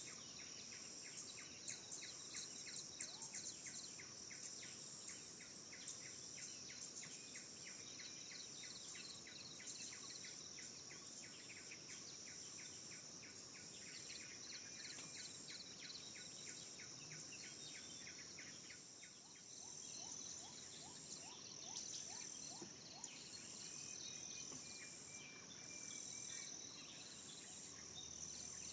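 Forest ambience: a steady, high, pulsing insect chorus with birds calling over it. A bird gives fast repeated notes through the first half, and a run of short repeated notes about twenty seconds in.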